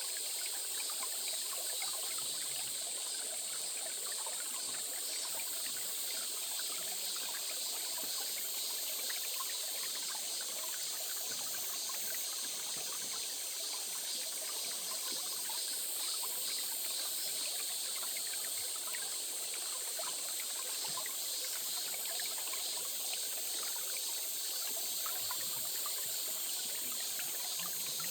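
Small stream trickling and babbling steadily, with a steady high-pitched hiss above it.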